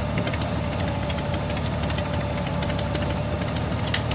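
Motorcycle engine running steadily with a low, uneven rumble and scattered ticks, and a sharp click near the end.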